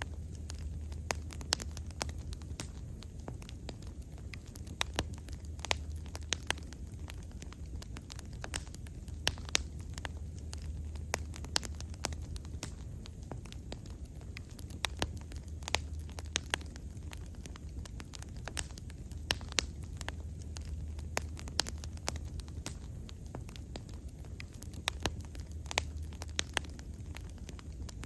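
Wood bonfire burning, with irregular sharp crackles and pops from the burning wood over a low, steady rumble.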